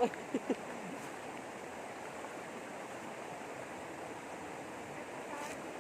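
River water rushing steadily, an even hiss with no clear splash.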